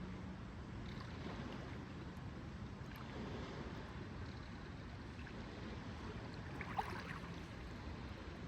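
Lakeside ambience: a steady low wash of lake water and wind, with a brief sharper sound about seven seconds in.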